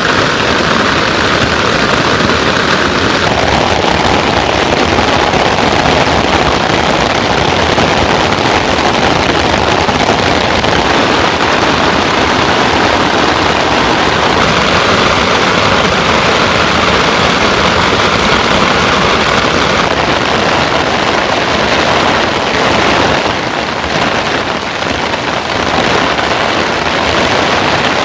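Heavy rain falling steadily, a dense hiss of downpour. Its texture shifts slightly a few seconds in and again later on.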